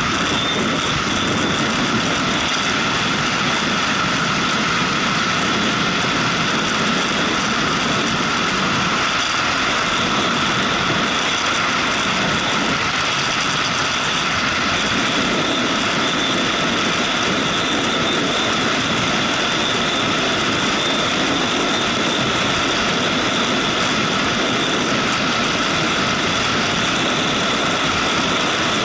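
Motorcycle being ridden at a steady pace: a constant, even mix of engine and road noise with no changes in speed.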